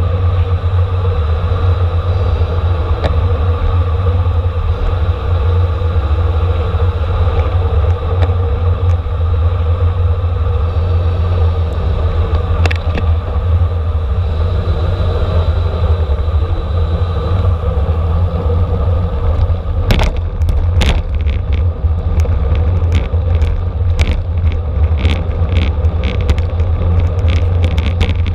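Steady rumble of wind and road noise on a camera riding a racing bicycle at speed in a criterium. About two-thirds of the way in, a run of sharp clicks and ticks begins.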